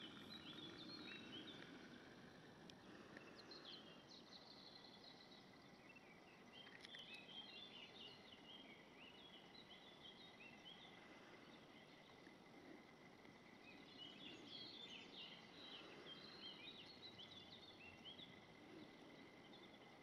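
Faint outdoor ambience with distant birds chirping in several bursts of short, rapid notes over a low background hiss.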